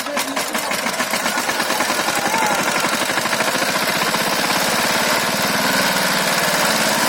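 Power tiller's single-cylinder diesel engine running with a rapid, even chugging, growing louder over the first few seconds and then holding steady as it pulls the trolley loaded with paddy.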